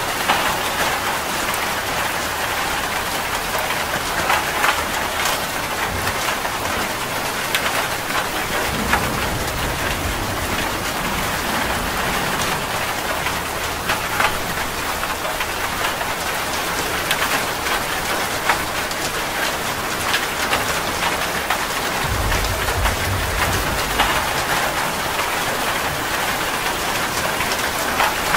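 Steady rain falling and splashing on a surface, with many separate drops heard. A brief low rumble comes about two-thirds of the way in.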